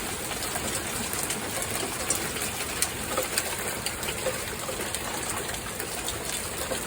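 Heavy rain pouring down: a steady hiss with scattered sharp ticks of drops striking hard surfaces.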